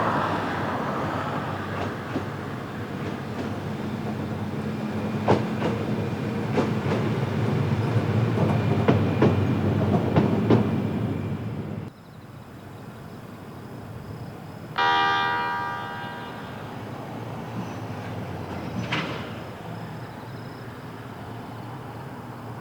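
Freight train running past, with a rumble and repeated sharp clacks of the wheels over rail joints, cutting off suddenly about twelve seconds in. A few seconds later there is a single loud ringing tone that fades over about a second and a half.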